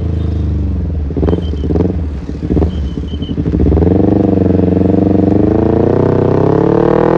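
Kawasaki Ninja 250FI parallel-twin engine through an R9 H2 SS aftermarket exhaust. A few short throttle blips come in the first two seconds, then about four seconds in the engine pulls steadily, its pitch rising as the bike accelerates.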